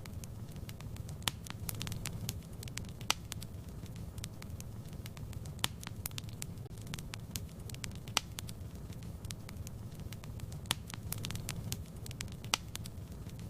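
Wood fire in a fireplace burning with a low steady rumble and irregular sharp crackles and pops, about one a second.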